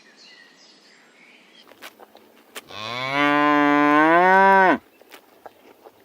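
A cow mooing once, a single call of about two seconds that rises in pitch, holds, then drops away. Faint chirps come before it and a few light clicks are scattered around it.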